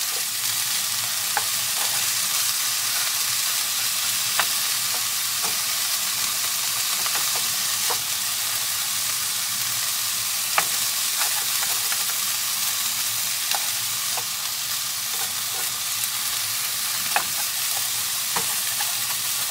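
Diced chicken sizzling as it fries in a non-stick wok, with a spatula stirring it and scraping or tapping against the pan every second or two.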